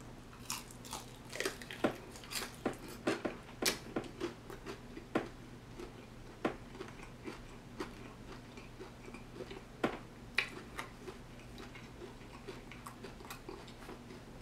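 Close-up chewing and biting of chicken wings: irregular short wet clicks and crunches, busiest in the first half and thinning out later, over a faint steady low hum.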